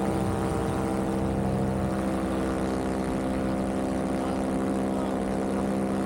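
Vittorazi Moster 185 single-cylinder two-stroke paramotor engine and propeller running steadily in flight, a constant, even drone.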